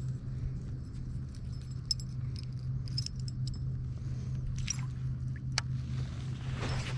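A fishing kayak's drive running with a steady low hum, under scattered light clicks and clinks of gear on board.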